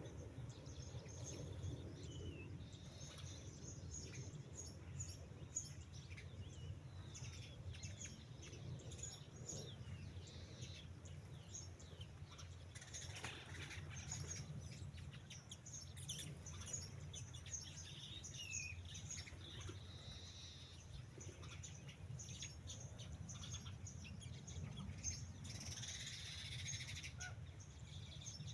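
Birds chirping outdoors: many short, scattered calls over a faint steady low rumble.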